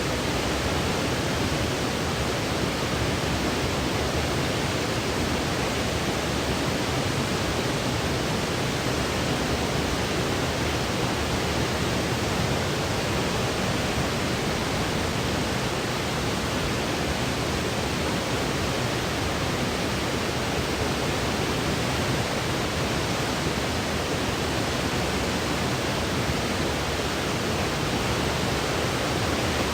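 Steady white-noise sleep track: an even, unbroken hiss with no rhythm, pitch or breaks.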